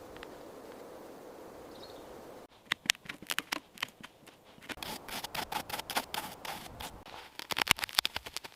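Dry forest debris, leaves and twigs, crackling and snapping in quick irregular clicks. It starts about two and a half seconds in, after a faint hiss, and is densest near the end.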